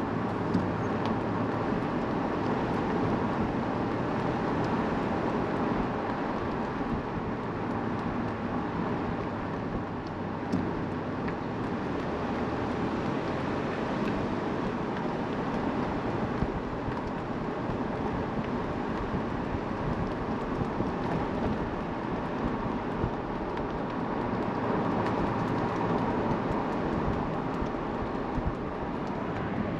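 Steady road and engine noise of a car driving, heard from inside the cabin, with a couple of small knocks.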